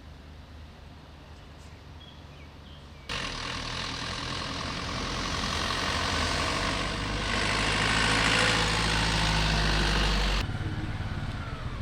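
A motor vehicle engine running close by. It cuts in abruptly about three seconds in, grows louder, then stops abruptly near the end, leaving a fainter low rumble before and after.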